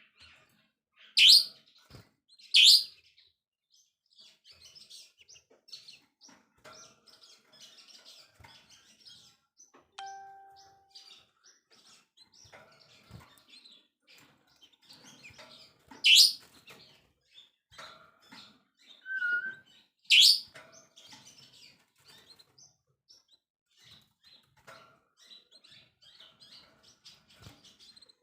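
Songbird singing: four loud, sharp, high whistled notes, two near the start and two later, over a steady scatter of faint chirps and twitters. About ten seconds in, a short steady beep-like tone sounds once.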